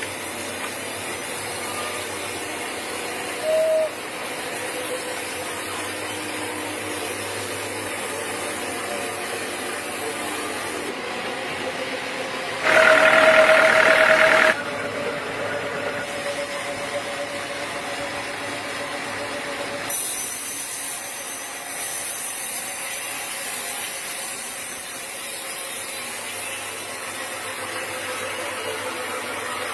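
Sawmill machinery running with a steady hiss and hum. A short pitched whine comes a few seconds in, and a louder high whine lasts about two seconds near the middle.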